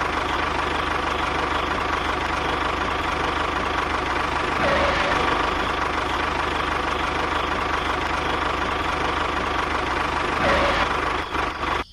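An engine running steadily at idle with a fast, even chug, swelling slightly twice.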